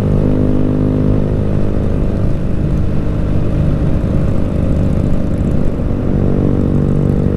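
Motorcycle engine running at a steady cruising speed while riding, with low wind rumble.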